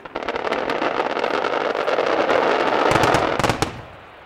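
Fireworks going off in a dense barrage: rapid, overlapping bangs over continuous crackling, growing louder, with the heaviest bangs about three seconds in, then dropping away suddenly just before the end.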